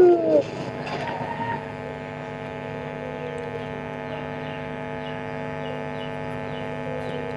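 The end of a loud coo from a puter pelung dove in the first half second, its pitch sliding down. It is followed by a steady hum of several held tones.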